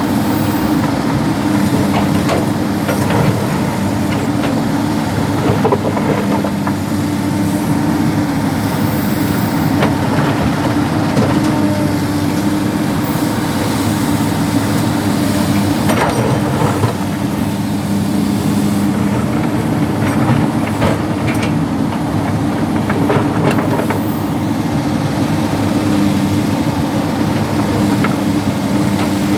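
Hydraulic excavator's diesel engine running steadily under load, with scattered knocks and clatter of rocks being scooped and dropped into a dump truck.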